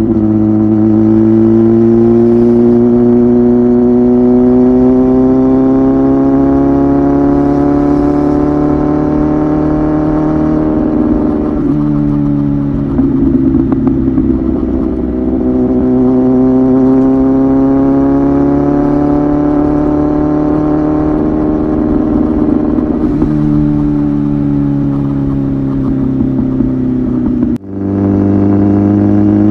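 Kawasaki ZX-10R third-generation inline-four engine through an aftermarket titanium muffler, on the move: the exhaust note climbs slowly through two long pulls, easing off in between. It drops out for a moment near the end, then comes back higher.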